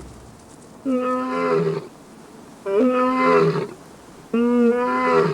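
Male lion roaring: three long roars, each about a second, each dropping in pitch at its end. This is territorial roaring by the pride male, which draws the rest of his pride to back him up.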